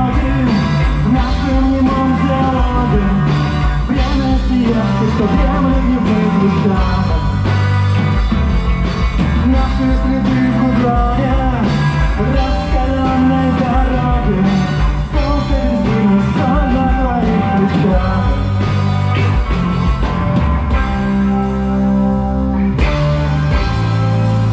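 Rock band playing a song live: a sung melody line over guitars, bass and drums, easing into long held chords near the end.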